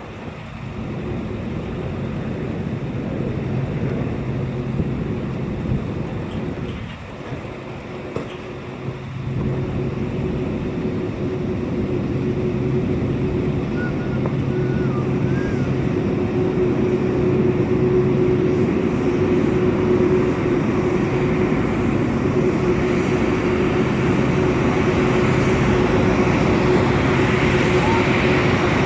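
Aircraft engine noise: a steady rushing hum with a held tone, slowly growing louder.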